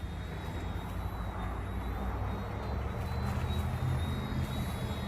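Eachine E110 micro RC helicopter in flight, its motors and rotors giving a steady high-pitched whine that wavers slightly in pitch, over a low rumble.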